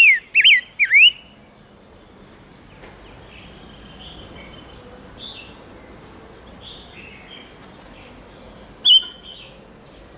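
Silver-eared mesia (ngũ sắc) calling: a quick run of loud, falling whistled notes in the first second, then softer chirps, and one more loud note near the end.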